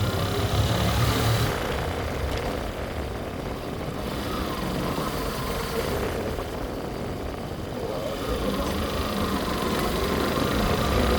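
Motorcycle engine running with wind and road noise while riding. It eases off about two seconds in and builds again near the end.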